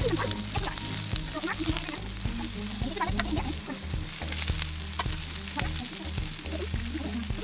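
Chopped onion sizzling in hot olive oil in an electric skillet, stirred with a spatula, with scattered pops and spatula strokes over the steady hiss of frying.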